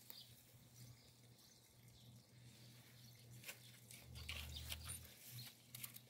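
Near silence with faint birds chirping, the chirps coming mostly in the second half.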